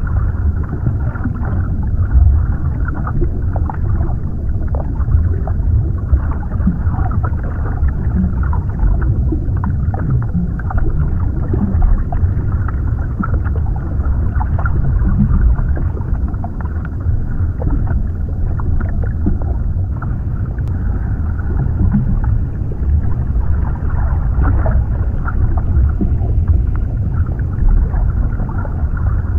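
Underwater ambience: a steady, muffled low rumble of moving water with faint short clicks scattered through it, and almost nothing above the low and middle range.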